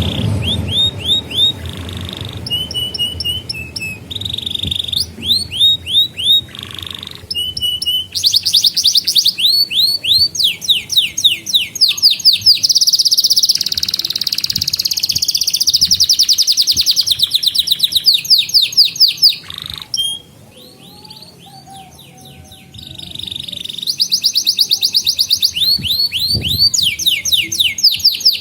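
Domestic canary singing: fast trills of rapidly repeated sweeping notes strung into changing phrases, with a brief quieter pause about two thirds of the way through before the trills resume.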